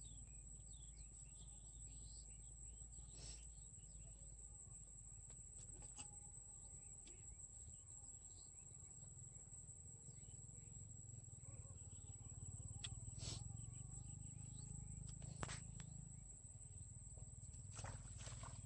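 Insects, likely crickets, giving a steady high-pitched trill, faint, with a few soft clicks and taps now and then.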